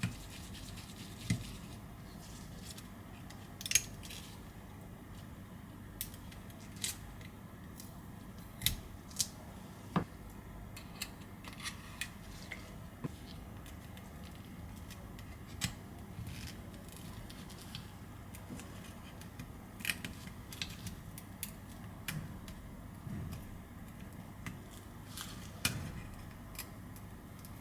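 Irregular small clicks and taps of hand tools on the internal parts and frame of an iPhone 11 being taken apart, a few sharper than the rest, over a faint steady hum.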